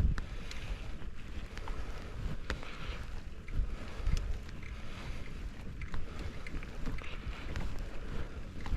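Wind buffeting the microphone of a mountain bike riding a dirt trail, a low rumble with scattered sharp clicks and rattles from the bike and its tyres over rough ground.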